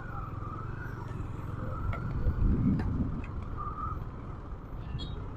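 Road traffic heard from a motorbike: a steady low rumble of engine and road noise, with a few faint wavering tones in the distance.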